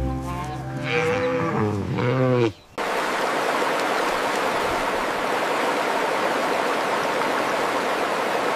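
A cow mooing, its call falling in pitch as it ends about two and a half seconds in. After a sudden cut, a steady, even rushing noise follows.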